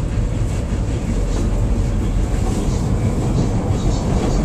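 CTA Brown Line rapid-transit train running along elevated tracks, heard from inside the car: a steady, loud rumble of wheels on rail.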